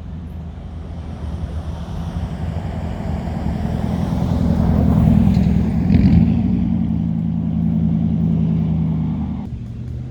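A motor engine running steadily with an even pitched hum, getting louder toward the middle and easing off near the end.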